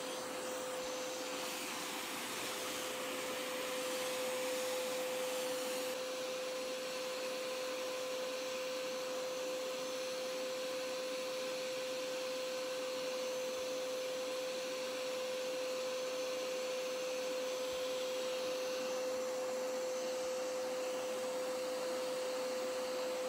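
Hoover Power Scrub Elite Pet carpet cleaner running with its handheld tool: a steady suction hiss with a constant whine, as it sprays cleaning solution into a wet rug and sucks the water back up.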